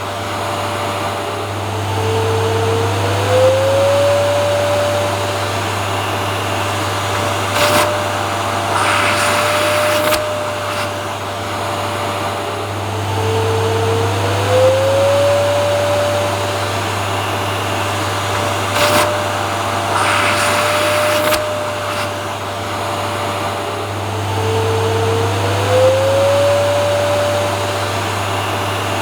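Vacuum cleaner running steadily, a loud whooshing noise over a low hum and a motor whine. The whine dips in pitch and glides back up about every eleven seconds, and there are short louder rushes of air in between.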